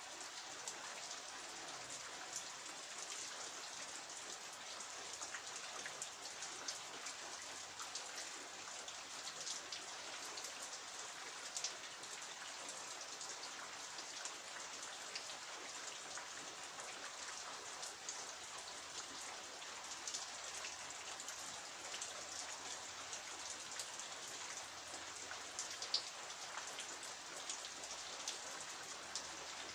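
Steady rain falling, an even hiss dotted throughout with the sharp ticks of individual drops striking surfaces.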